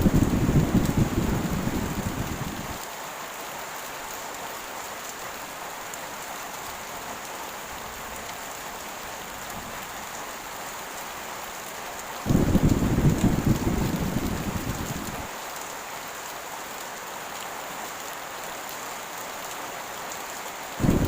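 Heavy rain falling steadily, with thunder rumbling twice: once at the start and again about twelve seconds in. Each roll sets in suddenly, dies away and cuts off after about three seconds, and a third begins at the very end.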